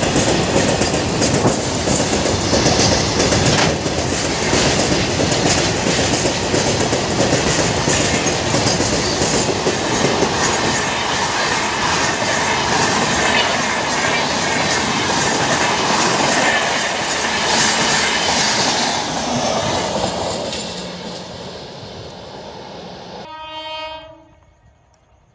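A freight train and an express train running past together on parallel tracks over a bridge: loud, steady wheel and rail noise with clattering wheels over the rail joints, fading after about twenty seconds. Near the end a brief horn note sounds, then the sound drops away.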